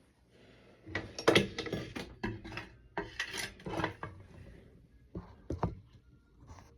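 Clatter of hard objects being handled: a dense run of knocks, clicks and short scrapes, then a few separate knocks.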